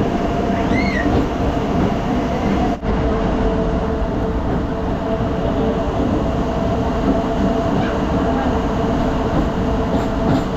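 MEMU electric local train running at speed, heard from inside the coach: a continuous rumble of the wheels on the track with a steady hum over it. The sound dips for an instant nearly three seconds in.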